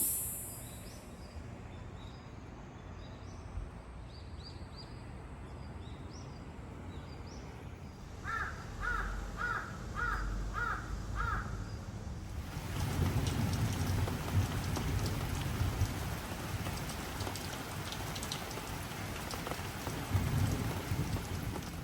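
Steady rain falling, growing heavier about halfway through. A bird calls six times in a quick even run in the middle.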